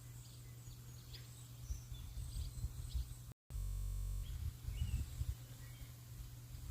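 Small birds chirping in short, scattered calls over a low rumble of outdoor background noise. About halfway through, the sound cuts out for a moment, then a short steady patch follows before the chirping resumes.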